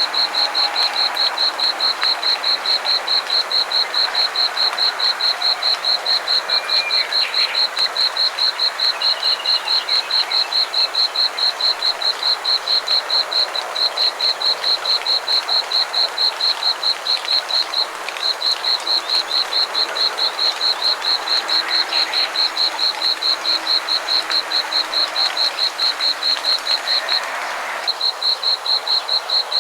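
Frogs calling in chorus. One close caller repeats a short, high note about five times a second, pausing briefly a few times, over a steady background of many other callers.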